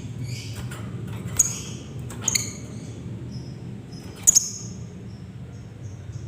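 Lovebirds chirping: a run of short, high-pitched squeaky calls, with three sharp, louder chirps across the middle, over a steady low hum.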